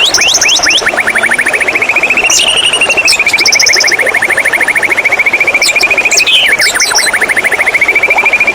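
White-rumped shama song: a long, very fast trill that rises slightly and then falls, a brief break, and a second trill, with short high whistled notes and sharp chips over the top.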